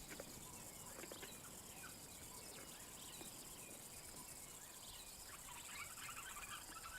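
Faint natural bush ambience: scattered small high bird chirps over a low insect hum, the chirping busier a few seconds in.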